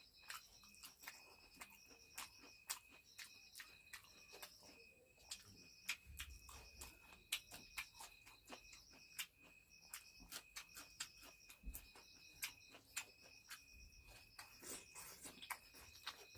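Faint eating sounds: many sharp, irregular clicks and crunches of chewing and handling food. Behind them, insects such as crickets chirp with a steady, high, pulsing trill.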